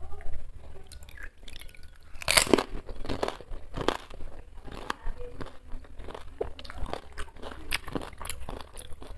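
A crisp fuchka (panipuri) shell crunching as it is bitten, then chewed close to the microphone. The loudest crunch comes about two seconds in, followed by a run of smaller crackles and clicks from chewing.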